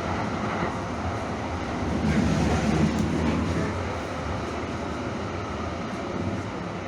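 Train running along the track: a steady low rumbling noise that grows a little louder for about a second and a half, a couple of seconds in.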